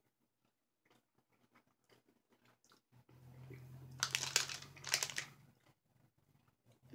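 Crunching and chewing a piece of white candy peppermint crunch bark, with faint mouth clicks at first and the loudest crunches between about four and five and a half seconds in. A low steady hum comes in about three seconds in.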